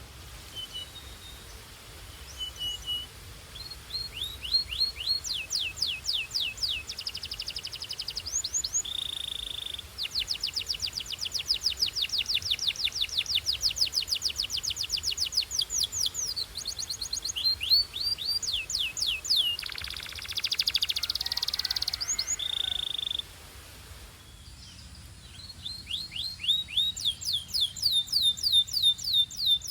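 Belgian canary singing: long phrases of rapidly repeated high notes and fast trills, changing from one repeated note to another, with a short pause about three-quarters of the way through before the song resumes.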